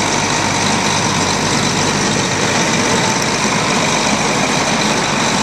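Case STX 375 quad-track tractor's diesel engine idling steadily.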